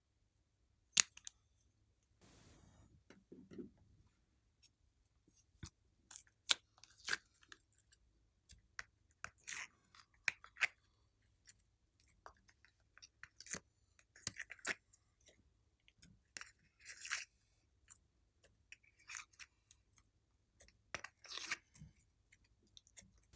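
Slime being kneaded and stretched by hand: irregular sticky clicks and short crackling squishes, the sharpest click about a second in.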